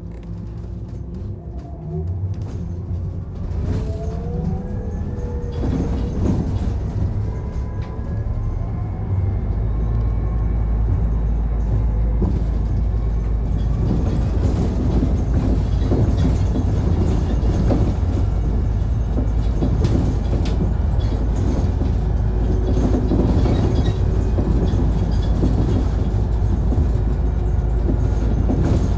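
Inside a Mitsubishi Fuso Aerostar Eco Hybrid city bus under way. A whine of several tones rises in pitch over the first few seconds as the bus gathers speed. From about nine seconds a deep steady drone joins it, and the running sound grows louder.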